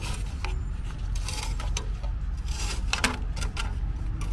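Scattered light clicks and taps of a furnace draft inducer blower assembly being handled and opened up, over a low steady hum.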